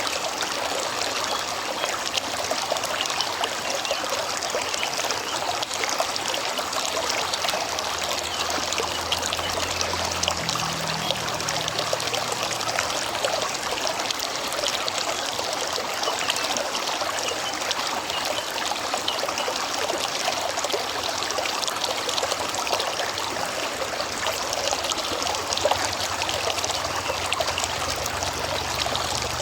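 A river's water flowing and trickling steadily, a constant babbling rush with fine splashy crackle.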